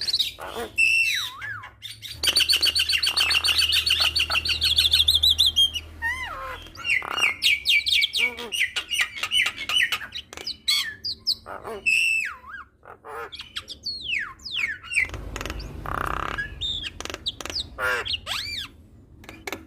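Javan myna singing a varied song: whistled notes sliding up and down, a long fast trill of rapidly repeated notes about two seconds in, and harsh chattering calls.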